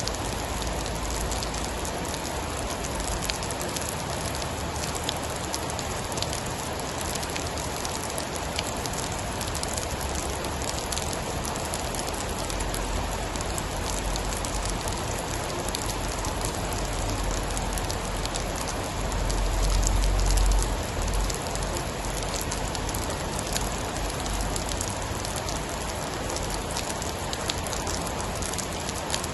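Steady rain, a dense even hiss with many small drop ticks. About two-thirds of the way through, a deep low rumble swells for a couple of seconds and fades.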